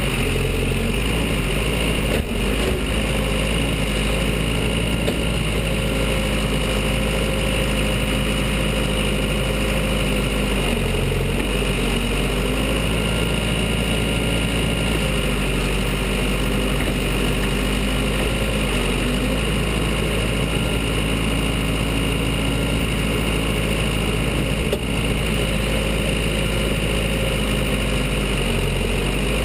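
Diesel engine of a Case 580 Super L backhoe loader running steadily at a low, even speed, its pitch shifting slightly now and then. A brief knock comes about two seconds in and another near the end.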